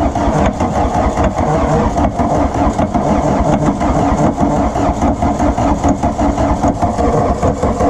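Starter motor steadily cranking the Volkswagen Rabbit pickup's four-cylinder diesel engine, which turns over evenly without catching. The engine has not run in about 17 years and has just had its fuel system primed; the mechanic judges that it has been given too much fuel.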